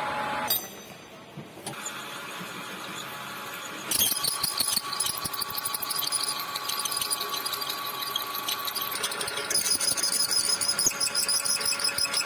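Metal lathe running, with a high-pitched squealing over the machine noise; it gets louder about four seconds in.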